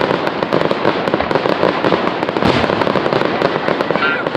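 Fireworks going off in a dense, continuous crackle: rapid small bangs close together with no let-up.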